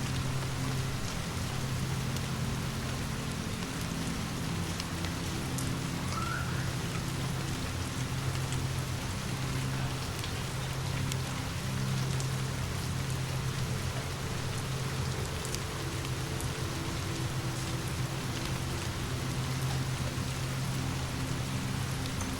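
Steady rain falling as an even hiss, with a few faint sharp ticks and a low steady hum underneath.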